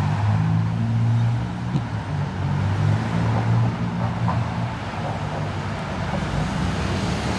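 Motor vehicle engine running close by with road traffic, a low steady hum that fades somewhat after about four seconds.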